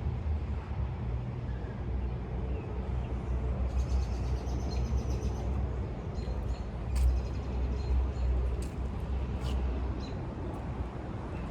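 Outdoor city park ambience: a steady low rumble of traffic, with a few faint bird chirps and clicks, mostly in the middle.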